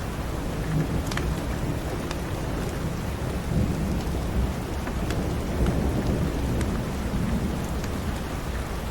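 Steady rain with a low roll of thunder swelling through the middle, and scattered sharp crackles from a wood fire.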